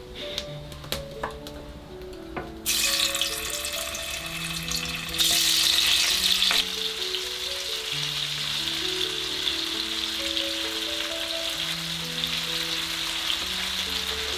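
Tofu frying in hot oil: a dense sizzle that starts suddenly about three seconds in, flares louder around five seconds in, then settles into a steady sizzle. A few light clinks come before it.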